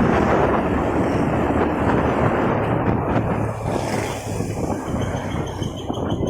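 Motorcycle riding in heavy traffic: a steady rush of wind on the microphone over the bike's engine running and the noise of surrounding vehicles.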